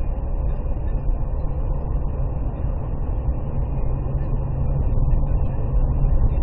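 Steady low rumble of a moving vehicle, engine and road noise with no sudden impacts.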